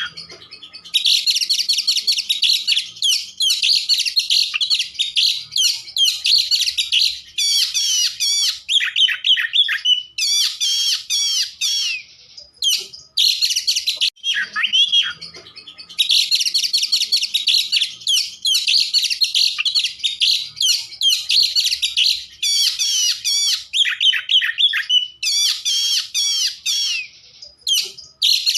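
Oriental magpie-robin (kacer) in full song: long runs of rapid, varied whistles and trills. The song breaks off briefly about 12 seconds and 15 seconds in.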